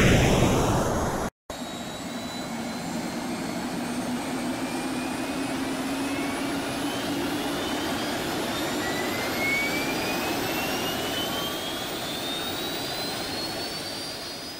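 Jet engine sound effect: a steady rushing noise with several thin whines slowly rising in pitch, fading away near the end. It opens with the dying tail of a loud blast and a brief cut to silence about a second and a half in.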